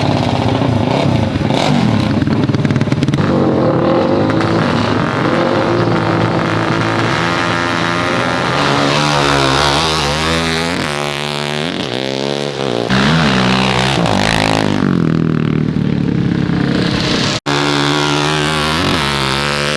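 Four-stroke 450-class ATV and dirt-bike engines running hard in a drag race. The pitch climbs and falls again and again as they rev and shift. The sound cuts out for an instant near the end.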